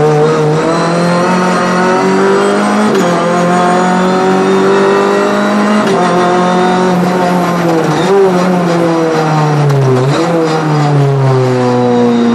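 Renault Clio 3 Cup's 2.0-litre four-cylinder engine heard from inside the cabin at race pace, its pitch climbing under acceleration with several short dips at gear changes, then falling as the car slows near the end.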